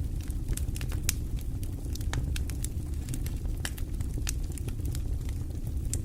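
Wood fire burning in a fireplace, crackling with irregular sharp pops over a steady low rumble of flame.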